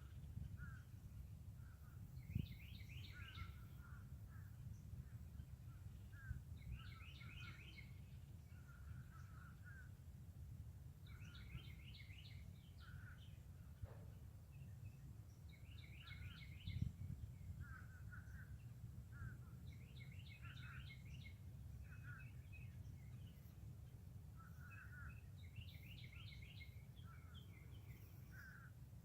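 A songbird repeats a short, fast, high song about every four to five seconds, with other birds giving shorter, lower calls in between. It is faint, over a steady low rumble.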